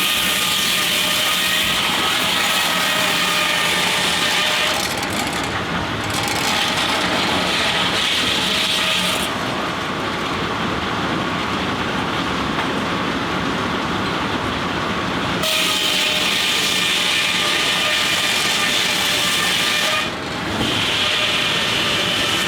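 Steam-powered sawmill at work: steam engine and mill machinery running steadily, with a loud hissing, whining noise that comes and goes in stretches of several seconds.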